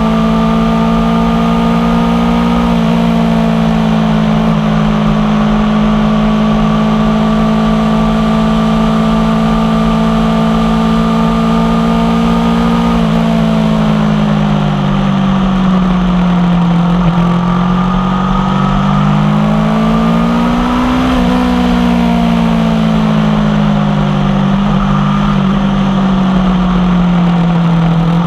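Aprilia Tuono V4 1100 Factory's V4 engine through an unbaffled aftermarket exhaust, pulling at a steady engine speed for the first half with a small drop in pitch about three seconds in. Past the middle the engine note falls off, climbs again to a peak a little after two-thirds of the way, then drops and settles.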